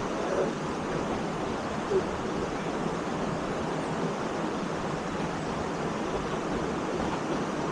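Steady rushing of a waterfall pouring into a rock pool: an even, unbroken roar of falling water.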